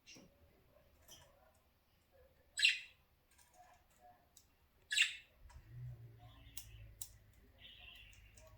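Budgerigar giving two short, loud squawks, about two and a half and five seconds in, with softer chirps and chatter between and after. A low steady hum starts about halfway through.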